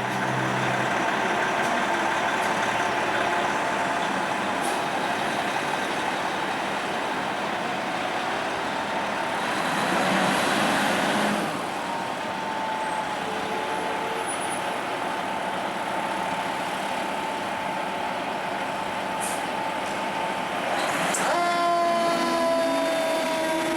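2008 Pierce Arrow XT pumper fire engine responding: its Detroit Diesel engine runs under power while steady siren or horn tones sound over it. A broad hiss comes about ten seconds in. Near the end a tone jumps up, then slowly falls in pitch as the truck moves past.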